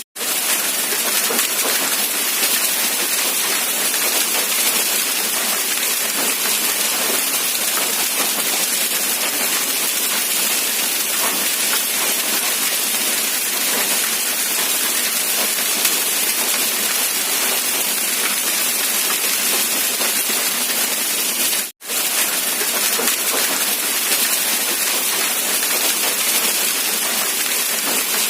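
Steady rain: an even, continuous hiss of falling rain. It cuts out for an instant about 22 seconds in, then carries on.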